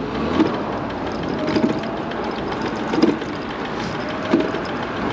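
MiniPro Mi716 electric scooter under way: a steady wind-and-road hiss with a short knock that repeats four times, about once every second and a quarter.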